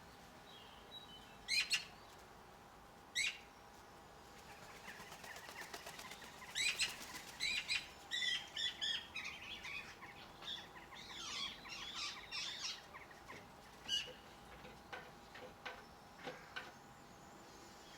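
Small garden birds at a feeding spot: a few sharp flutters of wings as birds land and take off, and a busy spell of short chirps and twittering calls in the middle.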